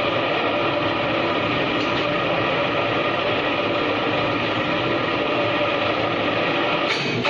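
Heavy machinery running: a steady, dense mechanical noise with faint steady tones running through it.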